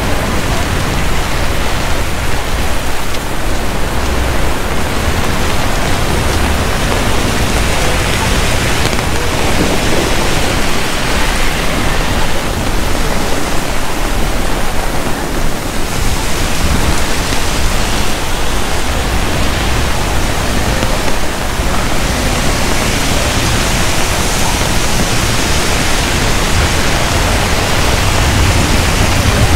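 Heavy rain falling steadily on wet city streets, a loud, even hiss, with a low rumble of traffic near the end.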